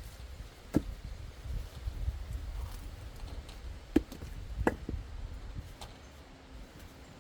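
Axe splitting firewood: a few separate sharp knocks of the blade into wood, the loudest about a second in and around four seconds, over a low rumble.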